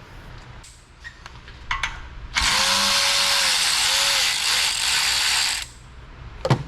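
Power tool running for about three seconds as it spins a small-engine exhaust bolt loose, after a few light clicks. A sharp knock near the end.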